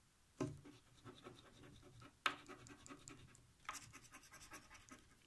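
Faint scraping of the silver coating off a scratch-off lottery card, in three bouts that each begin with a sharper scrape.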